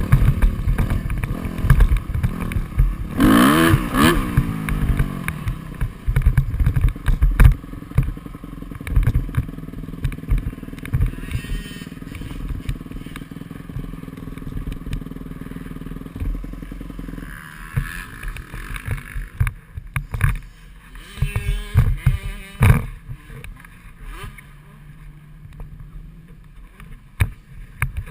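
Dirt bike engine revving up and down, loudest a few seconds in, with constant buffeting and knocks on a GoPro's microphone.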